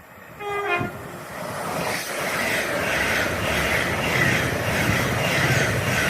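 Passenger train passing through the station at speed: a broad rush of wheel, rail and air noise that builds from about a second in and stays loud. A short tone falling in pitch is heard just before it builds.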